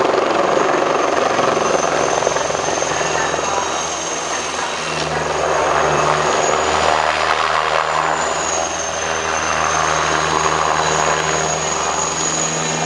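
Eurocopter Tiger attack helicopter running: a steady rush of rotor and engine noise with a high turbine whine over it, the low hum strengthening about halfway through.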